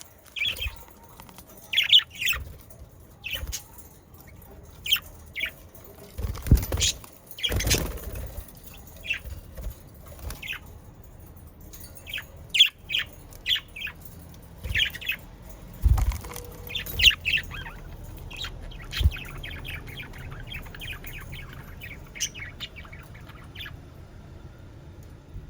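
Budgerigars chirping and chattering, with short calls scattered throughout and a quick run of chirps in the last few seconds. A few louder whooshing sounds come about six to eight seconds in and again around sixteen seconds.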